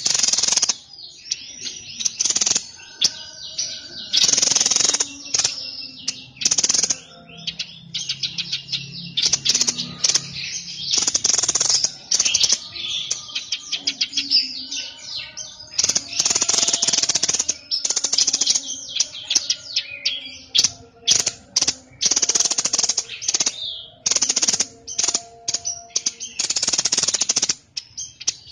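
Songbird of the kind Indonesian bird-keepers call 'burung sniper' singing in loud, high-pitched bursts of rapid chattering notes, each burst a fraction of a second to a few seconds long with short pauses between them.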